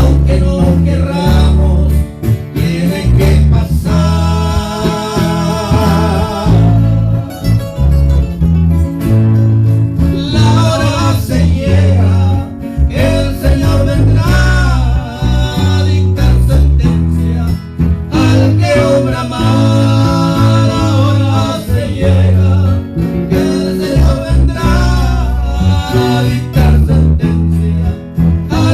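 A vocal trio singing a Spanish-language Christian song in phrases, accompanied by strummed acoustic guitars over a strong low bass line.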